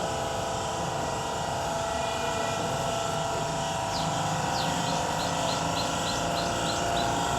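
Steady motor drone with several held tones. A run of short, high, falling chirps, about three a second, comes in over the second half.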